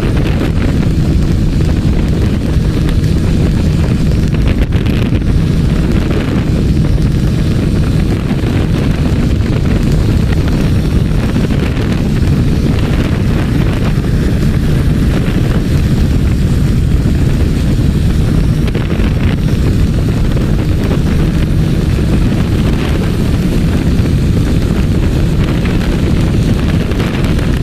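Wind rushing over the microphone of a moving motorbike, a loud, steady low rumble, with the bike's engine and road noise droning underneath.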